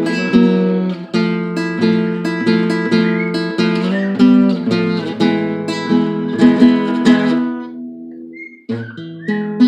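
Acoustic guitar strummed through slow, simple chord changes, as in beginner chord practice. A little before 9 s one chord rings out and fades before the strumming starts again.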